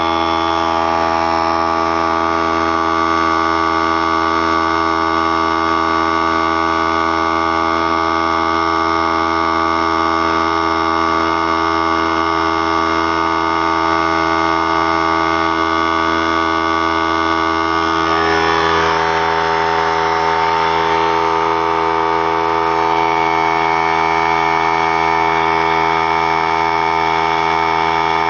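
A 3-gallon oilless pancake air compressor running steadily, its motor and pump giving a loud, even hum. About eighteen seconds in, a short rushing noise comes in and the tone shifts slightly, then it runs on evenly.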